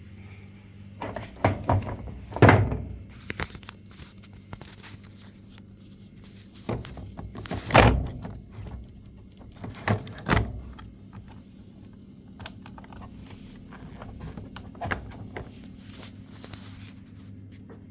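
Scattered knocks, thunks and clicks of the panel and control board being handled during a top-loading washing machine motherboard replacement, loudest about two and a half and eight seconds in, over a faint steady low hum.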